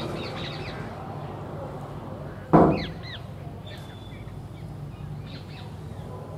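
Small birds chirping in short falling notes over a steady background hum, with one loud short cry about two and a half seconds in.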